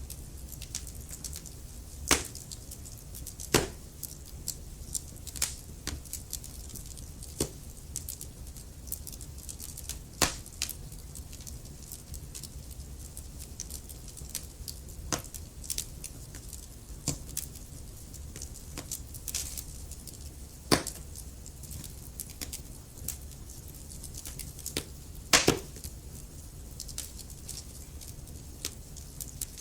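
Wood fire in a fireplace crackling, with irregular sharp pops and snaps over a steady low rumble; the loudest pops come about two seconds in and near twenty-five seconds in.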